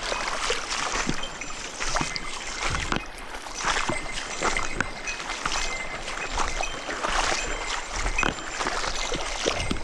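Someone wading through a shallow mountain stream: water splashing and swirling around the legs in irregular surges, about one a second, over the rush of the current.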